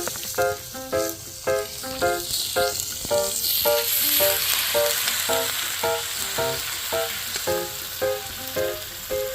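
Food sizzling as it cooks, a dense hiss that swells in about three seconds in. Under it runs plucked-string background music with notes about twice a second.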